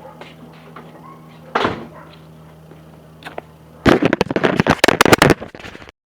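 Datsun 280Z's cammed L28 straight-six with SU carburetors idling through a Twice Pipes exhaust, a steady low drone with a couple of single thumps. About four seconds in, a rapid run of loud knocks and rattles covers it for about two seconds, then the sound cuts off suddenly.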